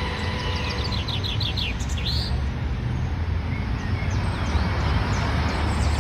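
A songbird singing: a quick run of short, high chirps ending in a curved note about two seconds in, and the phrase starting again near the end. A steady low rumble runs underneath.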